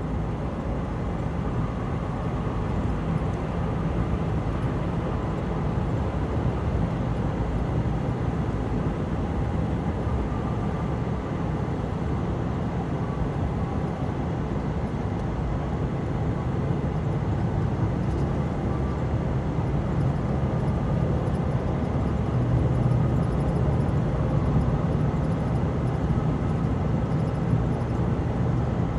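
Steady vehicle engine and road noise of driving at cruising speed, a low hum that runs on without revving, growing slightly louder past the middle.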